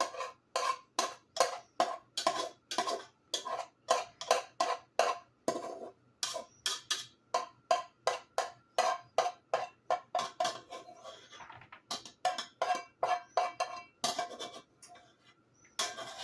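A spoon scraping and knocking against the stainless steel inner pot of an Instant Pot while scooping out cooked rice, about three strokes a second with a couple of short pauses; each knock rings briefly.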